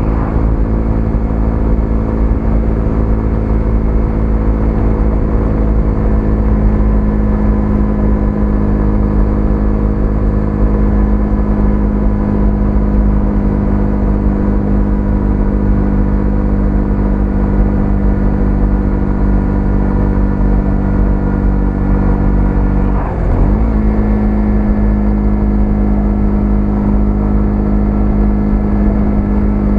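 Single-cylinder 125cc motorcycle engine running at a steady cruising speed, with heavy wind rumble on the microphone. About three quarters of the way through, the engine note briefly drops and climbs back, as at a quick gear change.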